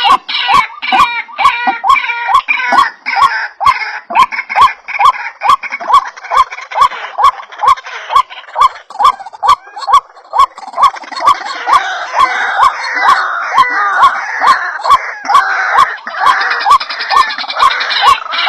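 White-breasted waterhen (ruak-ruak) calling: a fast, even run of short repeated notes, about three a second. From about the middle, a denser, harsher chatter of overlapping calls joins in.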